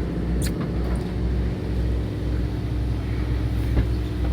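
Fishing boat's engine running with a steady low hum, with a couple of light clicks on deck.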